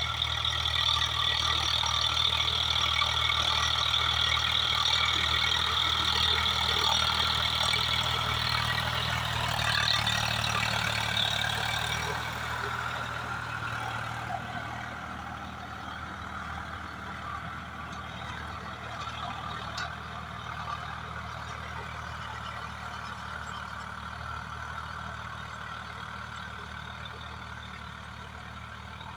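Swaraj 744FE tractor's diesel engine running steadily while working a rotavator, with a hissing, clattering layer on top. It is loud for about the first twelve seconds, then drops and fades gradually, as if moving away.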